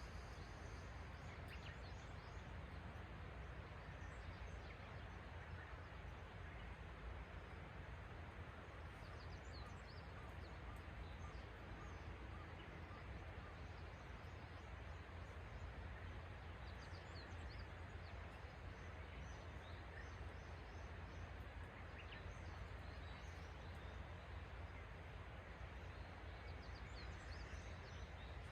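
Faint outdoor morning ambience: a steady low rumble with scattered short, high bird chirps a few times over the stretch.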